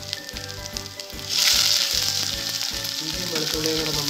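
Crushed ginger and garlic frying in hot coconut oil in a stainless steel pan, a steady sizzle that suddenly grows louder about a second in as the pan is stirred.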